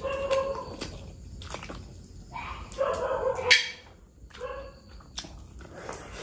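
Close-miked mouth sounds of eating mutton curry and rice by hand: wet chewing, lip smacks and mouth clicks in short bursts, with one sharp smack about three and a half seconds in.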